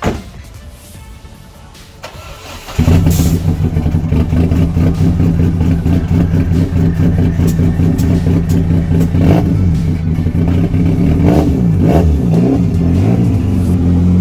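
Saturn S-series four-cylinder engine cranking briefly and catching about three seconds in, then running loudly at a steady idle; its pitch wavers near the end as the car pulls away. A sharp knock is heard right at the start.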